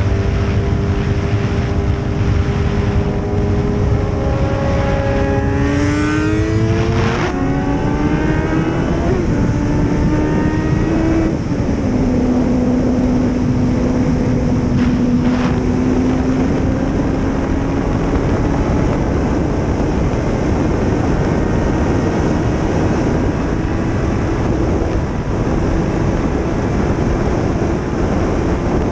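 Racing motorcycle engines running under way, climbing in pitch through the gears twice in the first ten seconds or so with a drop at each shift, then holding a steady drone, over a constant rushing noise.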